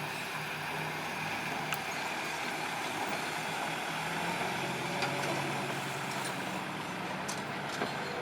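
Heavy diesel earthmoving machinery running steadily, with a few sharp clicks scattered through.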